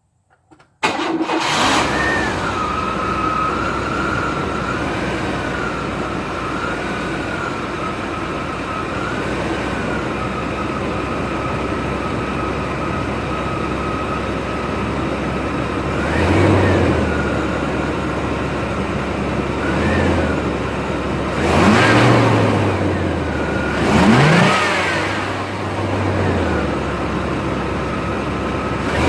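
1993 Chevy S10's 4.3-litre V6 on its factory exhaust starting about a second in, then idling steadily with a whine over it. The throttle is blipped four times in the second half, each a short rev that falls back to idle.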